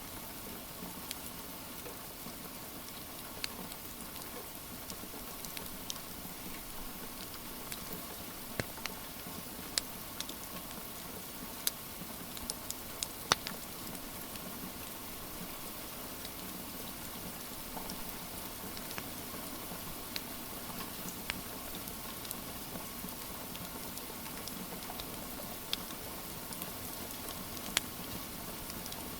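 Steady rain with a crackling wood fire: an even patter of rain under scattered sharp pops and crackles from the fire, one louder pop about midway.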